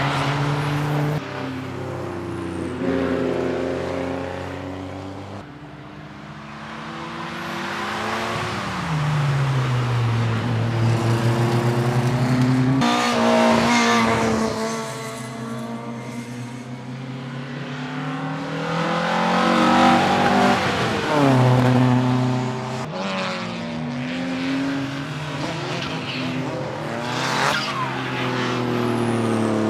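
Cars on a race circuit passing one after another, engines revving up and dropping back repeatedly through gear changes, with some tyre squeal.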